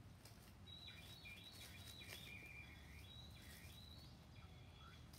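Faint birdsong: a songbird singing short whistled phrases with quick pitch glides, starting about a second in, over a steady low background hum.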